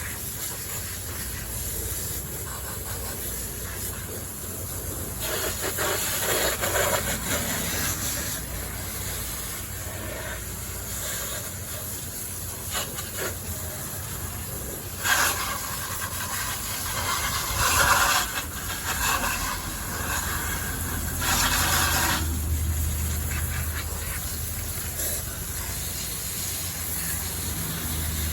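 Steady hissing spray with several louder bursts, from cleaning the RC car.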